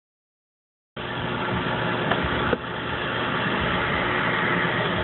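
Car engine idling, a steady hum that starts about a second in after silence. Two short clicks are heard about two and two and a half seconds in.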